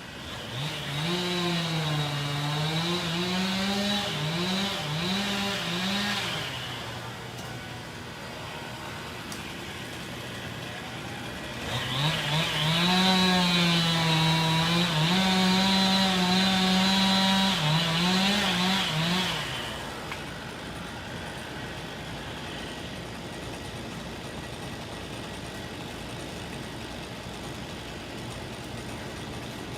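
Two-stroke chainsaw cutting in two bursts of several seconds each, the engine revving up and down under load. A steady engine hum carries on between and after the bursts.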